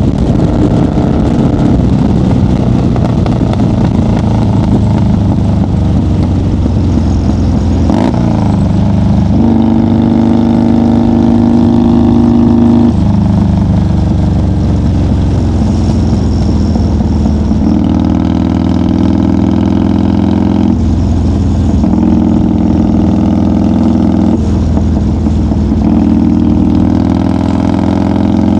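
1990 Harley-Davidson FXR's Evolution V-twin engine running at highway cruise. The engine note is steady but shifts up and down every few seconds as the throttle changes.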